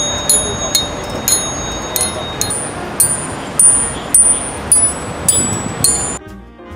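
Steel tubes of a public-art sculpture struck one after another as percussion, about two strikes a second, each ringing with a high, clear metallic tone. The pitch changes from strike to strike, picking out a tune. The strikes stop about six seconds in and soft saxophone jazz starts.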